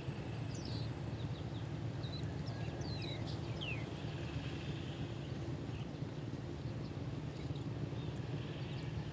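Small birds giving short, quickly falling high chirps, scattered and mostly in the first few seconds, over a steady low outdoor rumble.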